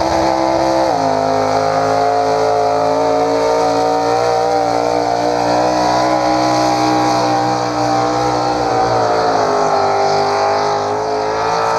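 Engine of a pulling vehicle at high revs, dragging the weight-transfer sled down the track. The pitch drops a step about a second in, then holds steady, with the motor laboring just a little under the load.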